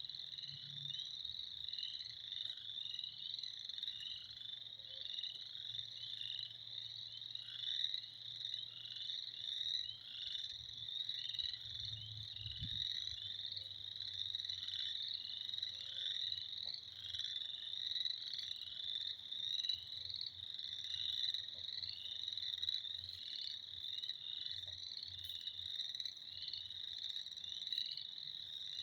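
A dense chorus of many frogs calling at once: short, high calls that overlap into a continuous racket with no break.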